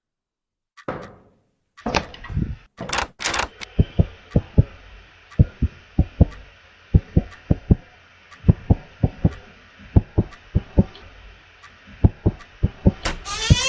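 Heartbeat sound effect: low thumps, often in pairs, about two to three a second over a steady hiss. A few sharp clicks come about two to three seconds in, and a wavering, gliding tone rises and falls near the end.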